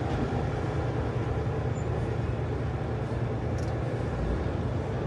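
Semi truck's engine and road noise while driving on the highway, a steady low rumble.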